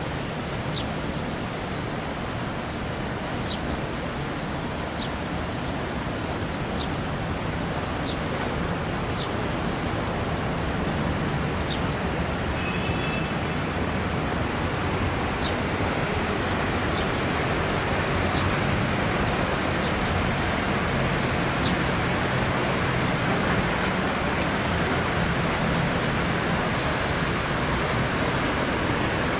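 Steady rushing of flowing water, slowly growing a little louder, with faint short high chirps now and then above it.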